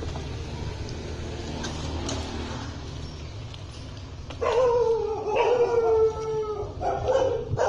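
A dog howling: long, drawn-out notes that slowly fall in pitch, starting about four and a half seconds in over a low rumble.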